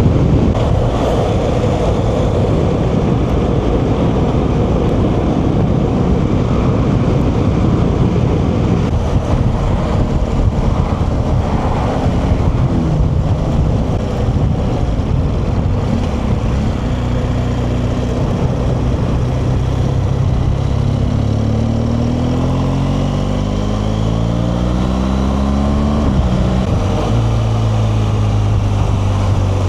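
BMW R1200GS boxer-twin engine running under way over a steady rush of wind noise. A little past halfway the engine pitch climbs as the bike accelerates, drops suddenly at a gear change, then holds steady.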